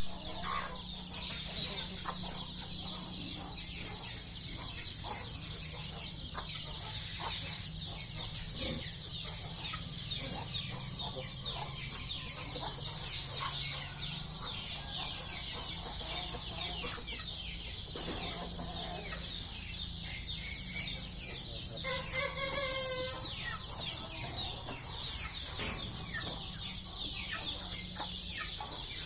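Free-range chickens clucking and calling, with a steady high drone of crickets or other insects throughout. One longer call comes about two-thirds of the way in.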